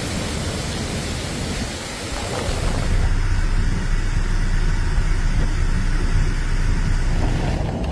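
Typhoon wind blowing hard, with a heavy rumble of wind buffeting the microphone. It gets louder about three seconds in.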